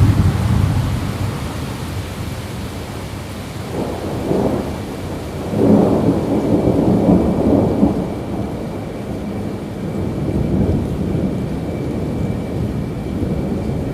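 Steady rainfall with rolling thunder rumbling, swelling about four seconds in and loudest from about six to eight seconds before fading back.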